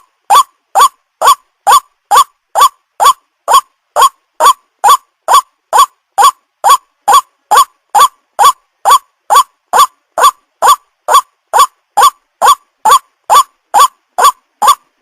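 White-breasted waterhen's "kwak" call, a short rising note repeated evenly about two and a half times a second. It is a looped lure recording, meant to draw the birds in.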